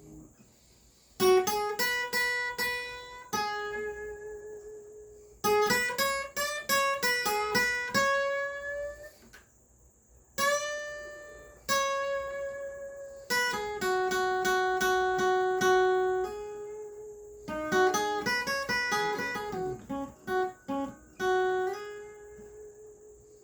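Acoustic guitar played solo, picking single notes and short phrases. Some notes slide upward in pitch, and there are brief pauses between phrases.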